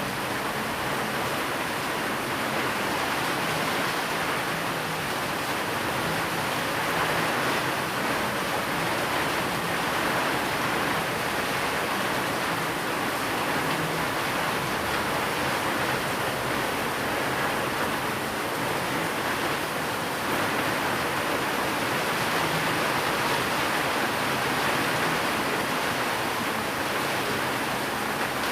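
Steady heavy rain, an even hiss with no single drops or thunder standing out.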